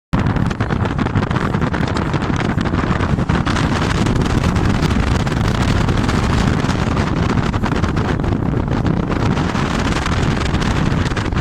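Loud steady rumble of a moving vehicle with wind buffeting the microphone, cutting off suddenly at the end.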